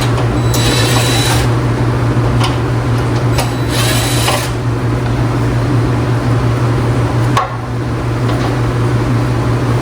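Handheld power drill run in two short bursts of about a second each, with a faint motor whine, over a steady low hum.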